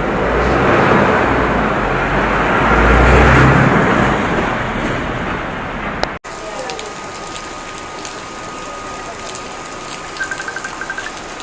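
City road traffic: a vehicle passes close by with a deep engine rumble and tyre rush, loudest about three seconds in. After an abrupt cut, quieter street ambience follows, with a steady thin tone and a short run of rapid high beeps near the end.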